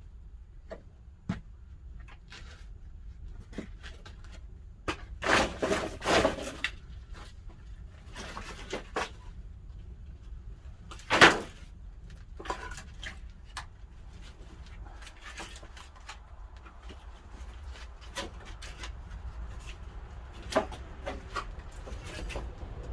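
Pine firewood burning in a wood-fired kiln: irregular cracks and pops, a cluster about five to six seconds in and the sharpest crack about eleven seconds in, over a low steady rumble of the fire.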